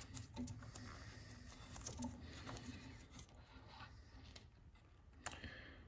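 Faint scattered clicks and light scrapes of hands working the lawn mower's oil filler cap and dipstick to check the engine oil.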